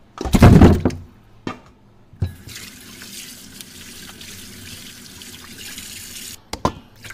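A kitchen tap running steadily into a sink for about four seconds while bones are rinsed, then cut off abruptly. It is preceded by a loud clattering thump about half a second in, the loudest sound, and two smaller knocks. One more short knock comes just after the water stops.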